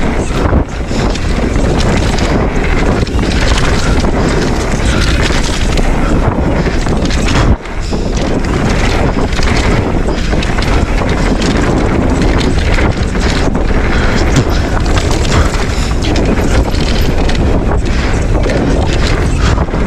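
Wind rushing over the microphone mixed with the rumble of a Specialized Stumpjumper Evo mountain bike riding a dirt trail at speed. The noise drops out sharply for a moment about seven and a half seconds in.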